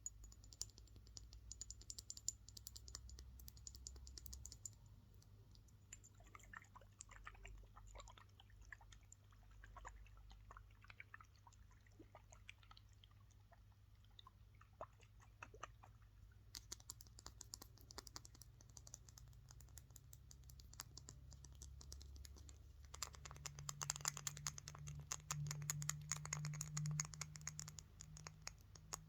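Fast tapping and scratching on assorted objects for ASMR: a quiet, rapid run of light clicks and taps whose texture changes several times. It grows louder and denser near the end.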